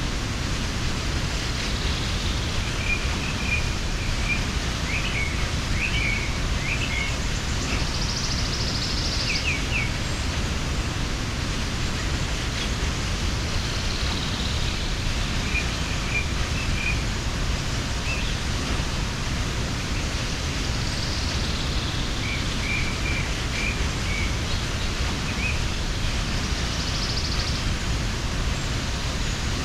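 Waterfall rushing steadily, with small birds chirping in short scattered runs of high notes throughout.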